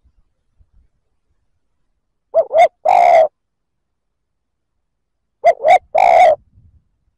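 Male spotted dove cooing its three-note call twice: two short notes, then a longer one. This is the advertising coo that bird-catchers play to lure wild doves.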